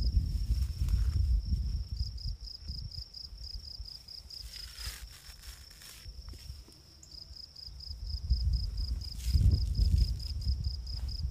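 An insect chirping in a fast, even pulse of high notes, about five a second, falling silent for a couple of seconds midway and then resuming. Under it, a low rumbling noise comes and goes, loudest at the start and near the end.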